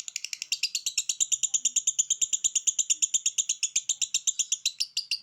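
A songbird giving a fast, steady trill of short high notes, about a dozen a second, held without a break.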